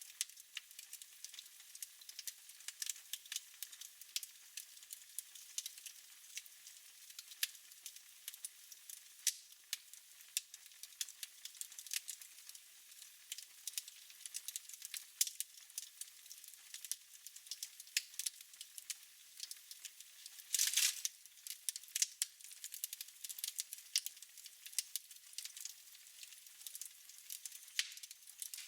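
Fire in a fireplace crackling, with a constant soft hiss and irregular sharp pops. A louder, longer pop comes about two-thirds of the way through.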